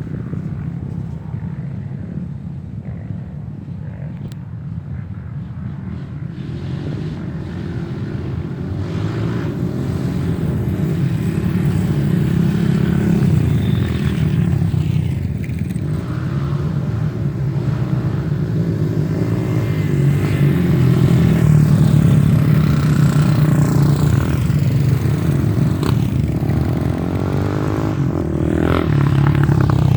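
Off-road motorcycle engines running and revving, pitch rising and falling, getting louder after the first several seconds.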